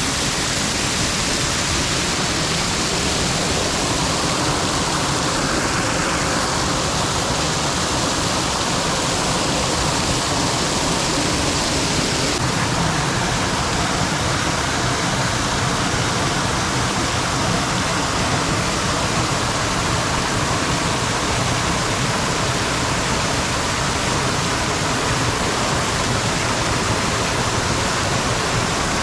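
Waterfall: falling water rushing and splashing in a steady, loud wash of noise.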